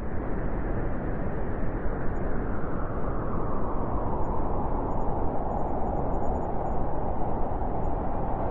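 Blizzard wind rushing steadily. A higher howling band swells in over the second half.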